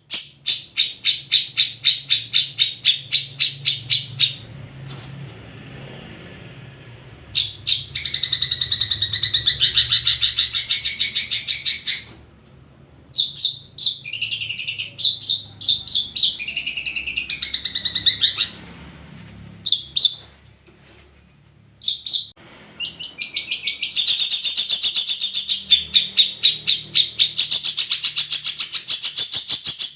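Long-tailed shrike (cendet) singing: fast runs of sharp repeated chattering notes, about four a second, broken by short pauses and by more varied warbling phrases in the middle.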